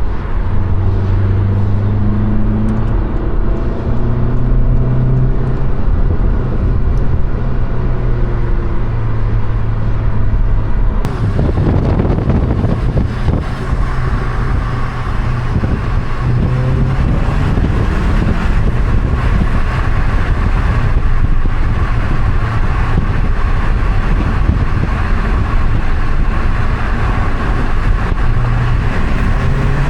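Volkswagen Golf GTI's tuned turbocharged 2.0-litre four-cylinder engine running while driving, its note rising and falling with throttle and gear changes, over road noise. About eleven seconds in the sound changes abruptly to a busier mix of engine and road noise.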